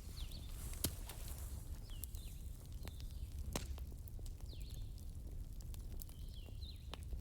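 Wood fire crackling in a fireplace: irregular sharp pops and snaps over a low rumble, with short high squeaks in between.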